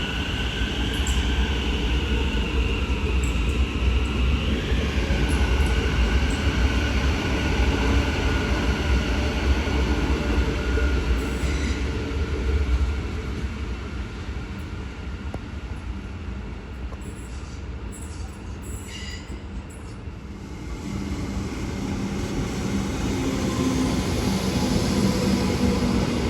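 Train running through a station: a steady heavy rumble with high squealing tones from the wheels over the first few seconds. The rumble eases about halfway through, then a low steady hum builds again near the end as another train draws near.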